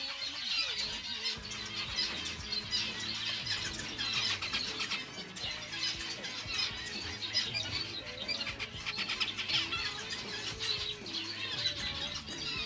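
Many small cage birds chirping and twittering at once, a dense, continuous chatter, over background music.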